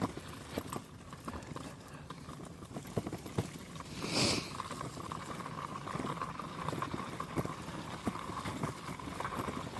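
Footsteps on a dirt forest trail: a run of irregular short steps, with a faint steady hum behind them and one brief brighter rustle about four seconds in.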